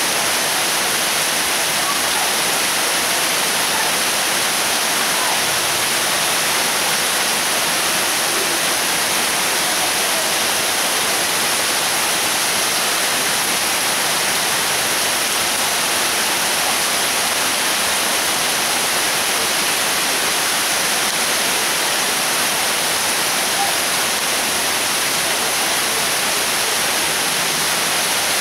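Heavy tropical downpour: a steady hiss of dense rain falling on trees, lawn and paving.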